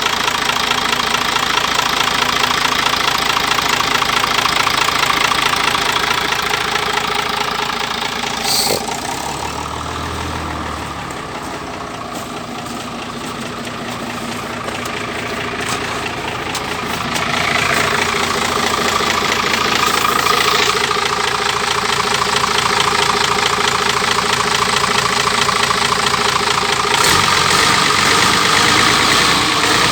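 Isuzu 6HE1 inline-six diesel engine running on a test start, a steady diesel idle. It drops quieter for several seconds about a third of the way in, then comes back up, with a short click just before the drop.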